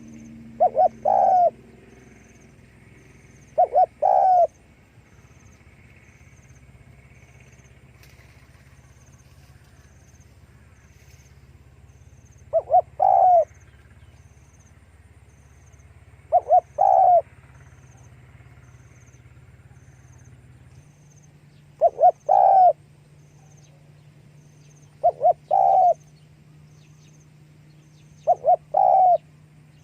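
Spotted dove cooing: a short, loud phrase of two or three low notes, repeated seven times a few seconds apart, with a longer pause in the middle. A faint steady hum lies underneath.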